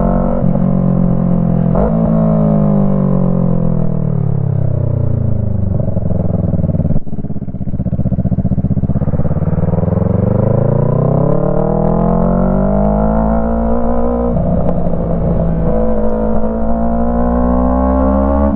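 Yamaha MT-03 motorcycle with a Jeskap full aftermarket exhaust on the move. The engine note falls for several seconds as the bike slows, gives a sharp click about seven seconds in, then rises as it accelerates and holds steady near the end.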